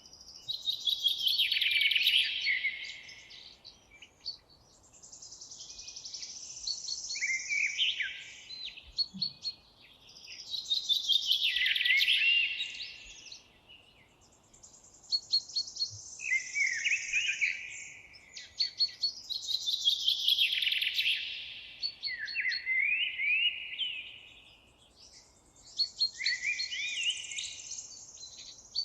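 Songbirds singing in a forest: phrases of quick, varied whistled notes a few seconds long, repeating every few seconds with short pauses between, with thin very high notes over some of them.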